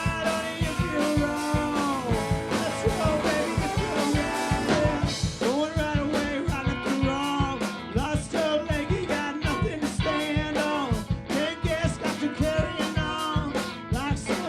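Live rock band playing a song: a steady drum beat under guitars, with melody lines bending over it.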